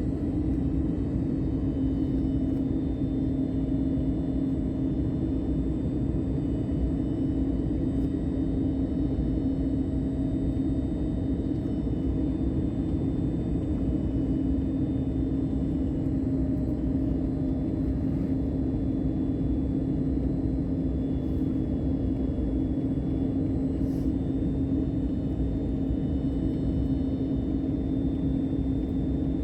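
Airbus airliner cabin noise in flight during the descent: a steady rumble of engines and airflow with a constant low hum running through it.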